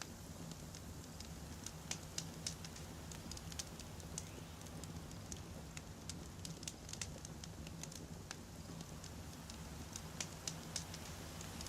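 Wood campfire burning: a steady low rumble of the flames with frequent sharp, irregular crackles and pops of the logs.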